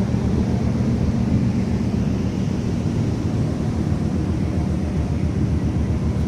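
Ship's engine running steadily during a trial run after dry-docking, a low, rapid, even throb with some wind noise on the microphone.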